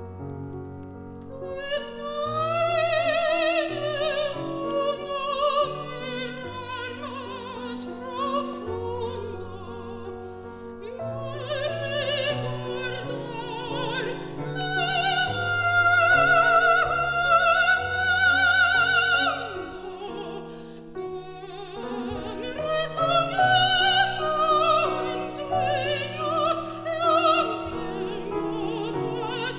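Classical soprano singing with wide vibrato over piano accompaniment. The voice rises to its loudest on a long held high note about halfway through.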